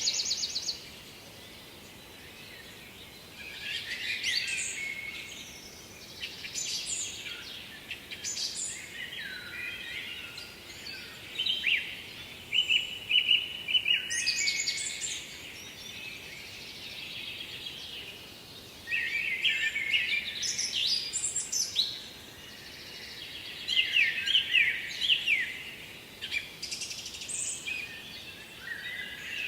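Songbirds singing, with a burst of song every few seconds over a faint steady background hiss.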